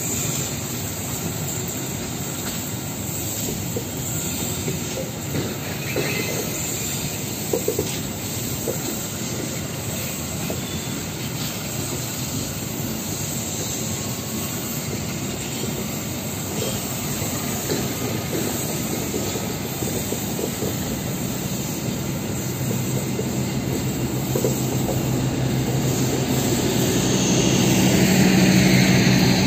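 Diesel-hauled passenger train passing on a curved track, its wheels clacking over the rail joints with a few sharp knocks. A steady low hum grows louder near the end as the coaches go by.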